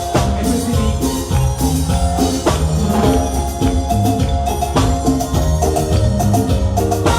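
Live Latin dance band playing, with busy percussion and a steady beat.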